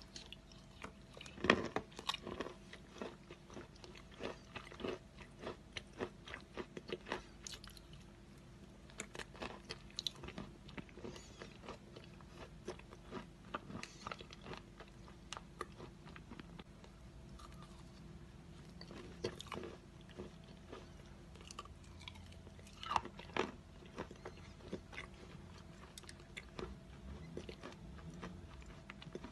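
Close-up mouth sounds of someone eating chalk porridge, a thick paste of chalk and water: irregular wet crunching, smacking and clicking as it is bitten and chewed, with the loudest crunch about a second and a half in. A faint steady hum runs underneath.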